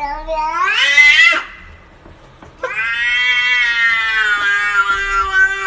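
A cat yowling in two long drawn-out calls: the first rises in pitch and breaks off, and after a short pause the second is held for about three seconds.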